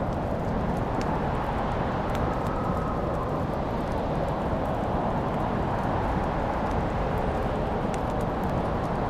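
Wood fire burning in a fireplace: a steady low rushing noise with a few sharp crackling pops.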